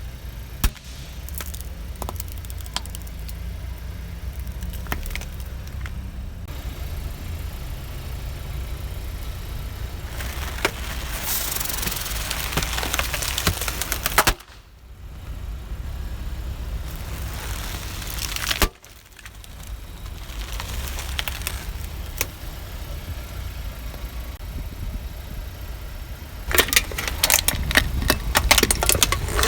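A car's engine running slowly while its tyres crush crunchy objects, with scattered cracks and stretches of dense crackling and crunching. The sound cuts off abruptly twice, and the cracking grows rapid near the end.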